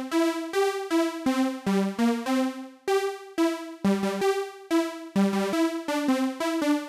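Arturia MicroFreak synthesizer playing a quick line of short notes, about three a second, on its Noise Engineering SawX oscillator in Unison Mode, with the oscillators stacked and detuned on each note. The tone is bright, and the last note rings a little longer near the end.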